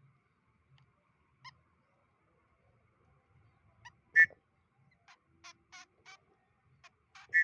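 White-breasted woodswallow (kekep) giving short, sharp calls. The loudest calls come about four seconds in and at the very end, with a quick series of harsh chattering notes between them.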